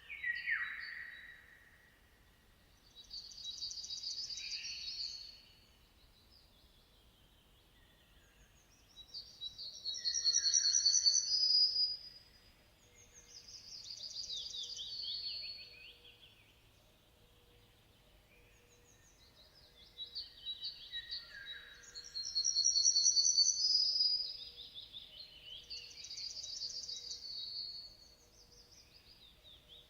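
Songbirds singing: a run of high, fast trilling phrases, each a couple of seconds long, with short pauses between them.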